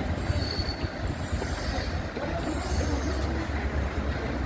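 Freight train running on the rails: a steady low rumble with a hiss that comes and goes in the highs, and a short high wheel squeal about half a second in.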